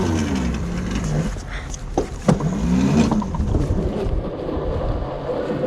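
Razor MX350 electric mini dirt bike's motor whining, rising and then falling in pitch twice as it speeds up and slows, over a low rumble. There are a couple of sharp knocks about two seconds in.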